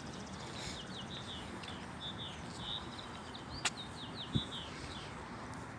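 A songbird singing a quick run of short, repeated chirping notes over a steady outdoor hiss, with one sharp click a little past the middle.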